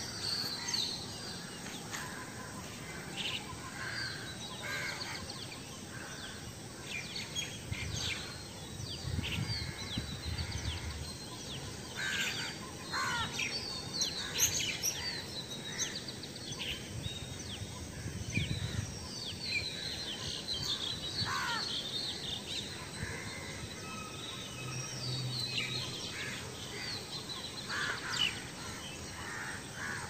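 Birds chirping and calling, short calls and falling whistles scattered throughout, with some cawing, over a steady background hiss. Low rumbles come and go, most clearly about a third of the way in and again a little past halfway.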